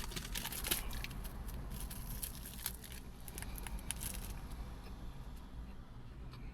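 A person biting into and chewing a churro. Faint crackles and small clicks over the first four seconds, then softer.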